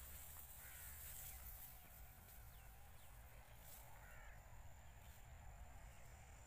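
Near silence: faint outdoor ambience with a low rumble, broken by two short, faint bird calls, one about a second in and one about four seconds in.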